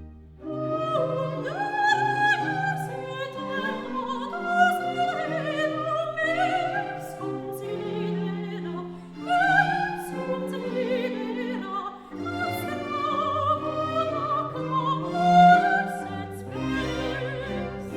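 Background music: an operatic voice singing with a wavering vibrato over an orchestral accompaniment of strings.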